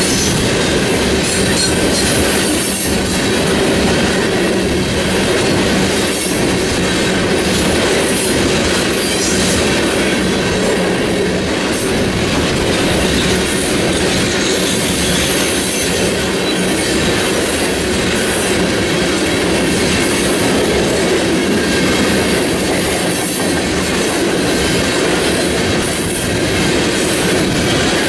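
Coal train's freight cars rolling past: a loud, steady rumble and clatter of steel wheels on the rails.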